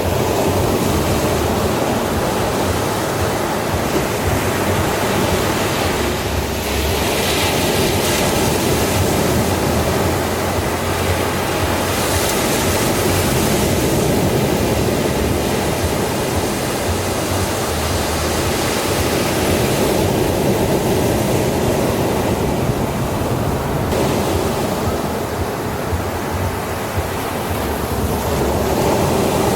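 Ocean surf making a continuous rushing wash. The hiss swells and eases over stretches of several seconds.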